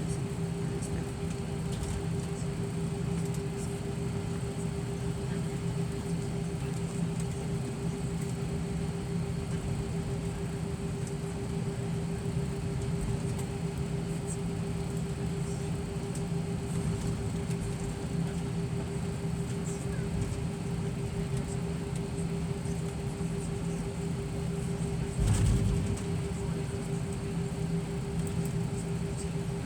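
Steady airliner cabin hum from the engines and air system while the plane waits on the ground before takeoff, with one low thump about 25 seconds in.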